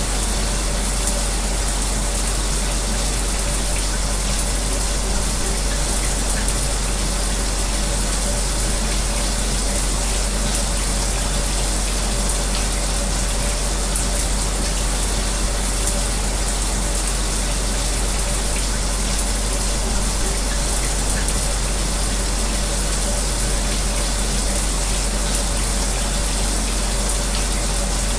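Shower water spraying steadily, blended with the even whir of an electric fan and a constant low hum, with no change throughout.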